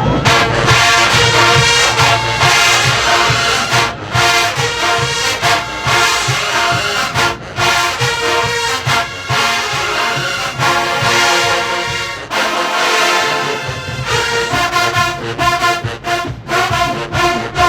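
Marching band playing with a loud brass section of trumpets and trombones, in a steady rhythm. The lowest notes drop out for about a second around twelve seconds in.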